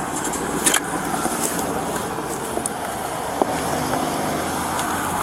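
Car running, a steady engine and road noise, with a sharp click about two-thirds of a second in.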